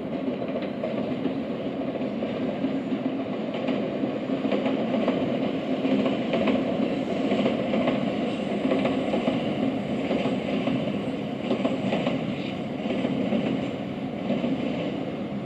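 Steady rumble of electric trains moving slowly on the tracks, with faint scattered clicks.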